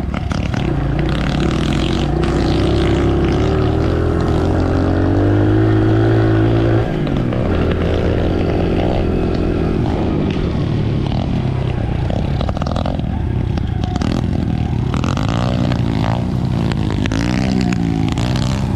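Dirt bike engine running under throttle, its pitch climbing for several seconds and then dropping sharply about seven seconds in as the throttle is closed. After that it keeps rising and falling in pitch.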